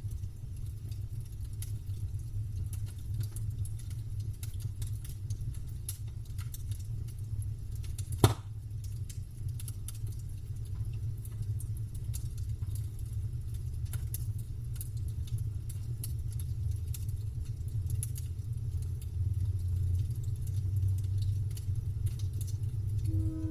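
Campfire burning: a steady low rumble with scattered small crackles and one sharp louder pop about eight seconds in.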